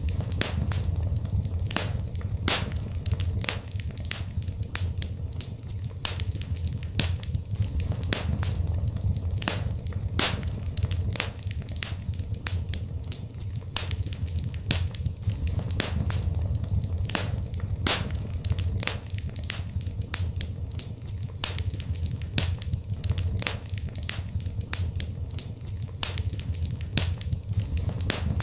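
Wood fire in a fireplace crackling and popping: frequent sharp irregular snaps over a steady low rumble of the flames.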